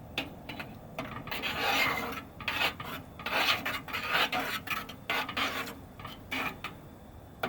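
A spoon scraping and stirring in a cooking pot on the stove, a run of irregular rasping strokes.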